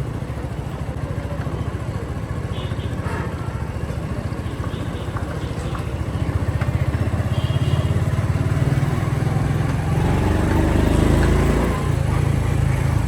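Motorcycle engine running under way, a steady low throb that grows louder about halfway through.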